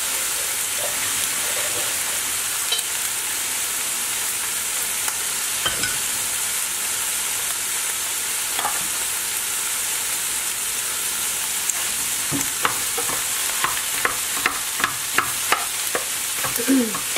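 Rice, scrambled egg and green peas sizzling steadily in a frying pan. From about twelve seconds in, a wooden spatula scrapes and taps against the pan more and more often as the rice is stirred and broken up.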